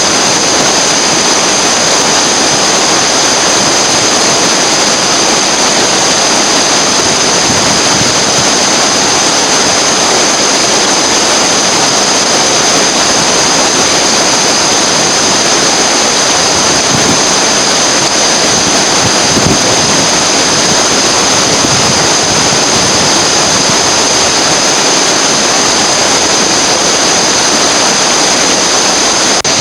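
Whitewater river rapids rushing, a loud, steady, unbroken noise with no change in level.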